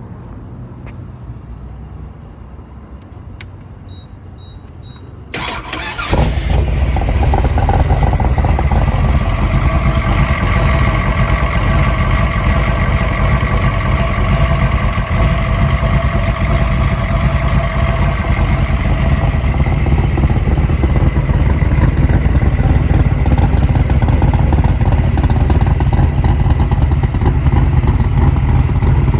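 A 427 Cobra's V8 with straight-pipe exhausts being cold-started. Three short beeps come first; about five seconds in, the starter cranks briefly and the engine catches, then it runs loud and steady.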